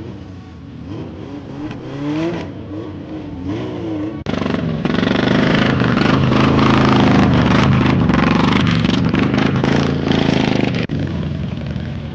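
Motorcycle engines revving: first a few throttle blips rising and falling in pitch, then about four seconds in a much louder stretch of engines held at high revs, which cuts off suddenly about eleven seconds in.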